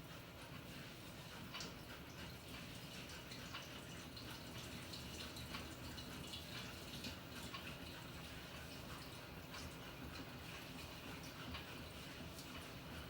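Water splashing and dripping inside the tub of a Panasonic NA-FA100H9 fully automatic washing machine during its wash cycle: a steady patter of small, irregular splashes.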